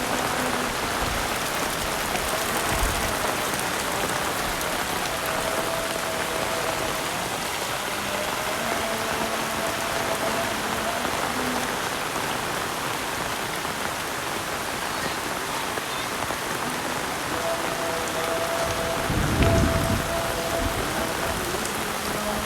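Heavy rain pouring steadily, a dense even hiss of rain striking the ground and surfaces. Faint steady tones come and go underneath, and a short low rumble sounds near the end.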